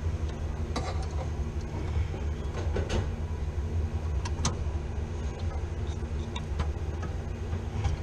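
Steady low mechanical hum from running machinery, with a few sharp light clicks and taps, about three of them in the first half.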